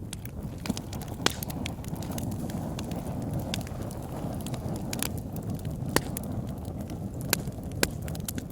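Fire burning in a fireplace: a steady low rush of flames with sharp crackles and pops, a few of them standing out loud and clear.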